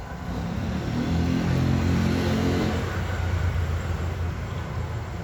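Low engine rumble of a motor vehicle, growing louder about a second in and rising in pitch before settling into a steady hum.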